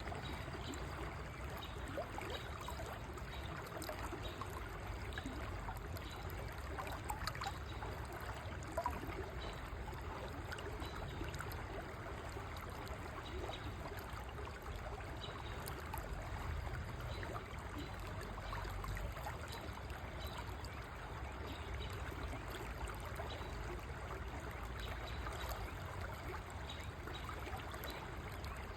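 River flowing steadily, a constant even rush of moving water.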